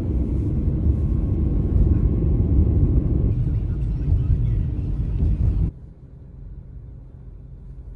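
Car driving in a snowstorm: a loud low rumble of road and wind noise that cuts off suddenly a little over five seconds in, leaving a quieter rumble.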